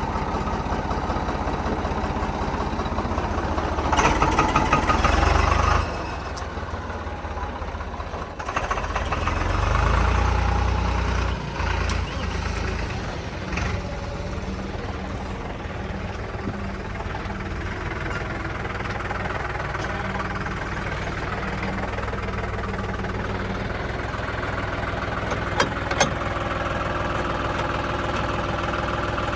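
Tractor diesel engines running with a steady knocking drone, growing louder twice as they are pushed harder: once about four seconds in for a couple of seconds, and again around ten seconds in.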